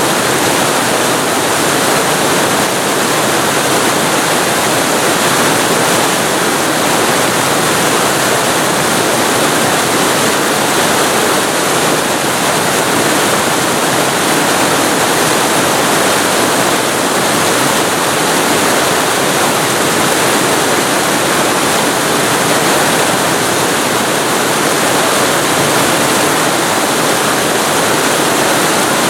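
Waterfall recorded very close to the falling water: a loud, steady rush and roar of water.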